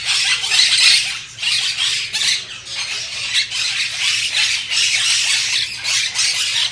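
A flock of parakeets chattering and squawking together, a dense, continuous mass of many short overlapping calls.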